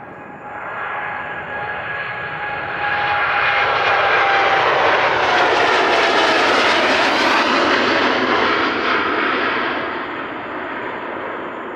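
Boeing 787-8 jet airliner's engines at take-off power as it climbs past, swelling to a loud peak about midway and then fading, with a whining tone that slides down in pitch as it goes by.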